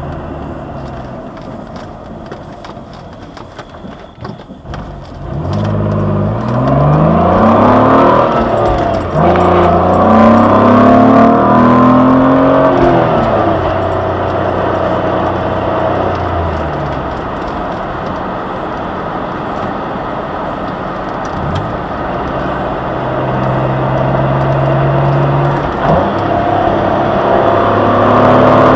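2003 Jaguar X-Type's 2.5-litre V6, heard from inside the cabin, runs quietly at first, then pulls away with its pitch climbing. The pitch drops at a gear change about nine seconds in and climbs again, then settles to a steady cruise before rising once more near the end.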